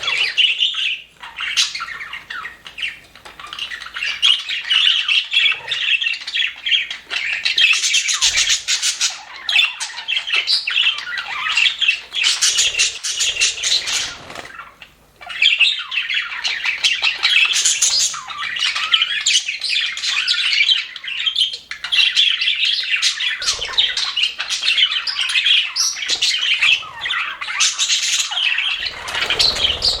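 A flock of budgerigars chattering and warbling nonstop, many birds overlapping, with a brief lull about halfway through.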